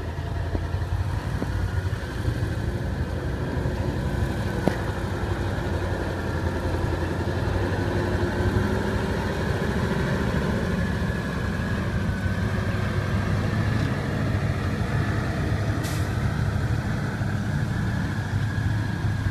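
Engine of heavy construction machinery running steadily at a low, even hum, with a couple of faint ticks.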